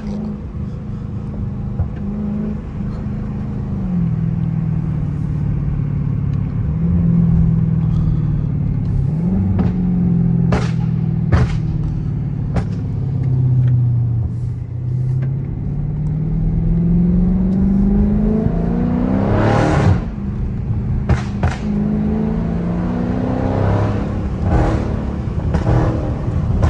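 Dodge Charger 392's 6.4-litre HEMI V8 running under way, its pitch sinking and then climbing as the car accelerates. A tune set up for pops adds sharp exhaust pops and crackles, a few about halfway through and more near the end.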